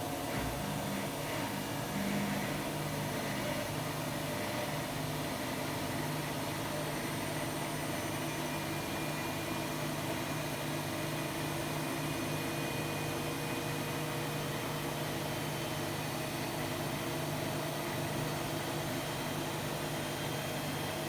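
Hotpoint-Ariston AQD972F washer-dryer running mid-programme: a steady, even motor hum with a faint background hiss.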